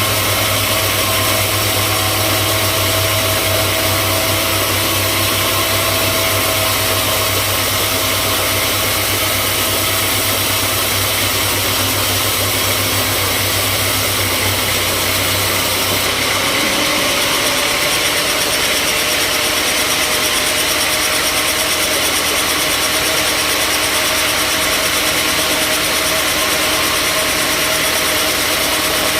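Sawmill machinery running steadily, with an engine-like hum. The low part of the hum drops away a little over halfway through while the machine keeps running.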